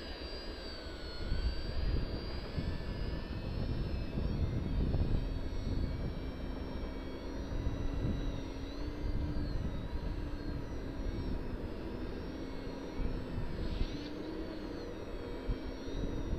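Parkzone VisionAire RC plane's electric motor and propeller whining, its pitch rising and falling as the throttle changes and the plane passes. Gusty wind rumbles on the microphone underneath.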